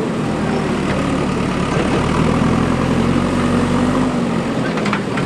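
Diesel engine of a JCB 3DX backhoe loader running under working load, its speed rising slightly and then dropping back, with a few faint clicks near the end.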